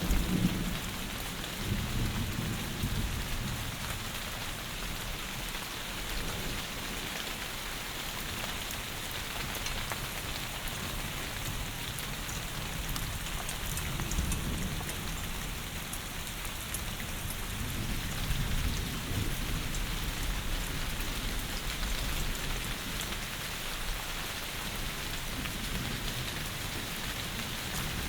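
Heavy rain falling steadily, an even hiss of drops with low rumbles swelling now and then.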